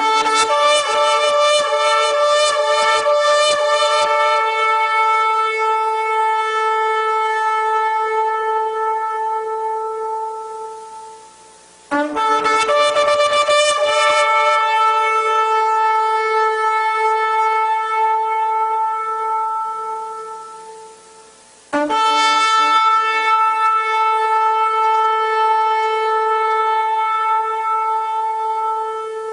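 Shofar (ram's horn) sounding three long blasts, each held for about ten seconds on one steady note after a brief wavering start, then fading out.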